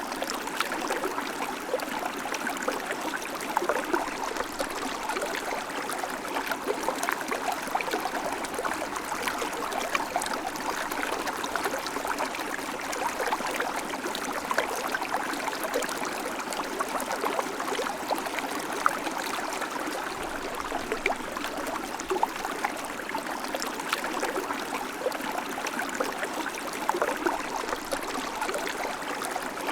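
River water flowing over stones, a steady rushing with small splashes and gurgles throughout.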